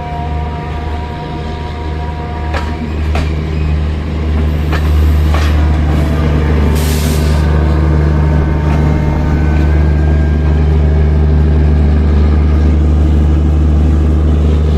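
Train running with a steady low drone that grows louder about four seconds in, with several sharp clicks in the first half and a short hiss of released air about seven seconds in.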